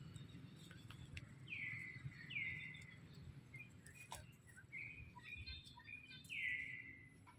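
Bird calls: a few high, clear calls that each sweep down in pitch, with shorter chirps between them, over a low steady background rumble.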